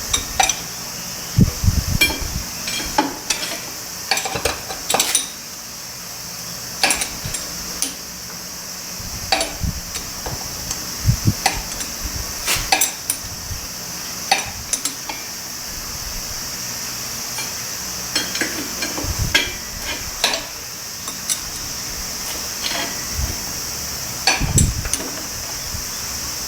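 Scattered metallic clinks and knocks of hand tools and metal parts being handled, a few at a time with short pauses, over a steady high hiss.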